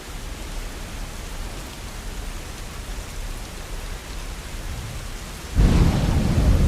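Steady rain, then about five and a half seconds in a sudden loud clap of thunder that keeps rumbling.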